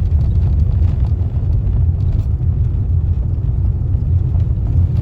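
Car driving down a rough, patched road: a steady low rumble of road and engine noise.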